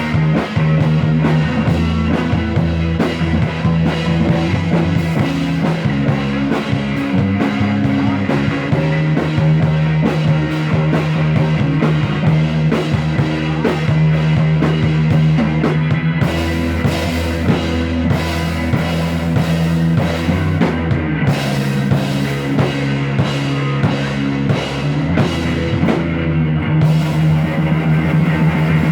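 Rock band playing live with drum kit, electric guitar and bass, growing brighter and fuller about halfway through.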